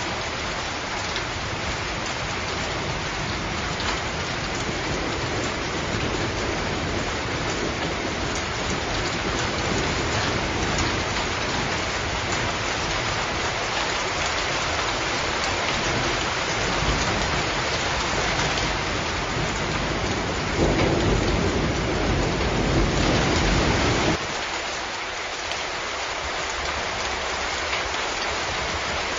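Steady heavy rain hissing down, with a low rumble of thunder building in the second half and breaking off abruptly near the end.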